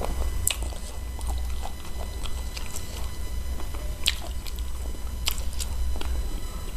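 Close-up wet chewing and sucking on spicy chicken feet, with a few sharp smacking clicks of the lips and teeth, over a steady low hum.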